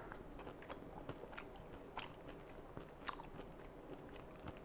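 Faint chewing of a mouthful of focaccia with caviar, with scattered small clicks and crunches of the crust.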